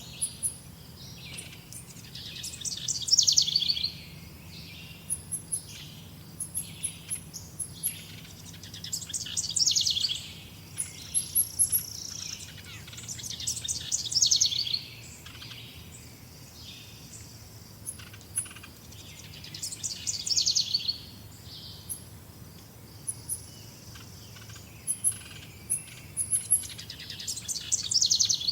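Birds singing: one bird repeats a fast, descending trill about a second long, five times, roughly every five or six seconds, over frequent short, high chirps from other birds.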